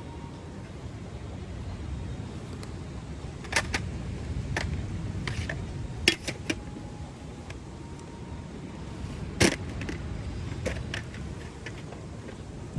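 Wood campfire crackling, with a handful of sharp pops a second or two apart over a steady low rumble.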